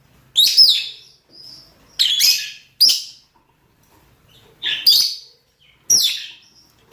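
Lovebirds giving shrill mating calls: about six short, sharp chirps spaced through the stretch, each a quick falling sweep.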